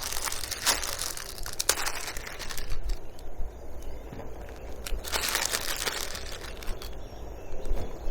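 Packaging or gear being handled: crinkling and rustling with scattered small clicks and taps, heaviest at the start and again about five seconds in, over a low wind rumble on the microphone.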